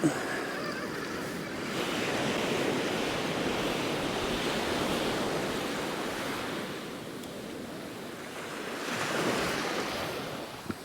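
Sea surf breaking and washing up the beach: one long wave swelling for several seconds, then a shorter one near the end.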